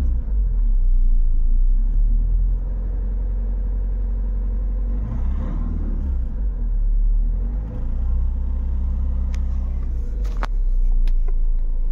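Jeep Compass engine running at raised revs, around 2000 rpm, heard from inside the cabin, with a steady low rumble that swells twice. It is being revved as a test after its softened EGR vacuum lines were replaced. A few sharp clicks come near the end.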